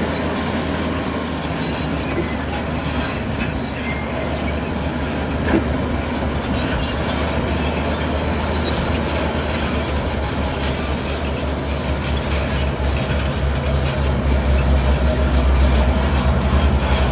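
Heavy diesel earthmoving machinery running steadily with a low rumble and a noisy clatter. The low engine rumble grows louder near the end.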